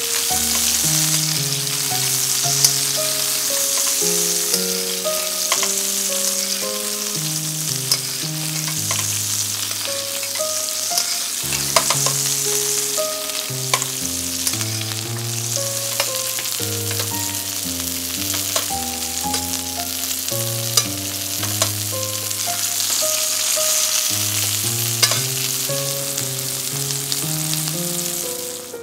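Chicken breasts pan-frying in butter and oil in a steel frying pan: a steady sizzle with scattered sharp pops and clicks as the fat is spooned over them.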